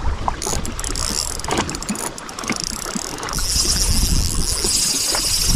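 Fishing reel drag buzzing as a hooked fish takes line, starting about three seconds in, over scattered knocks and handling noise against the kayak.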